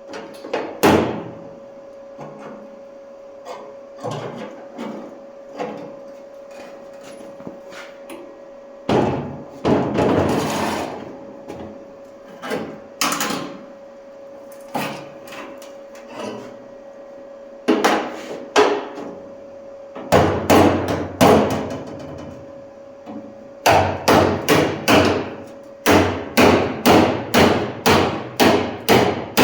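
Hammer blows on the sheet metal of a car fender: scattered knocks at first, then denser hammering, ending in an even run of about three strikes a second. A steady hum runs underneath and stops near the end.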